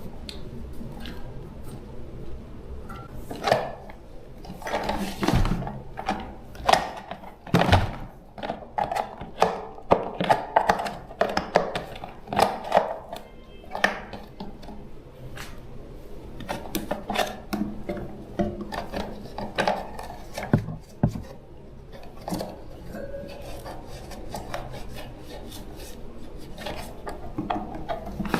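Irregular clinks, taps and rubbing of small hard parts being handled and worked on, busiest in the first half and sparser later.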